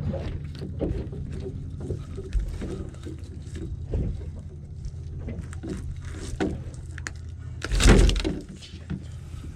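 Knocks and clatter of handling aboard a small boat while a hooked snook is played and brought in, over a low steady hum, with one loud thump about eight seconds in.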